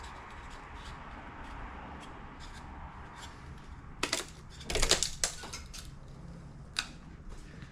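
Metal tools and engine parts clinking and clanking during an engine teardown: a quick cluster of sharp clanks about four to five seconds in and a single click near the end, over steady background noise.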